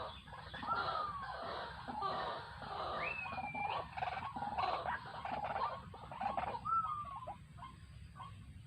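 White-breasted waterhens calling: a dense run of harsh croaking and grunting notes mixed with a few short downward-sliding whistles, thinning out near the end.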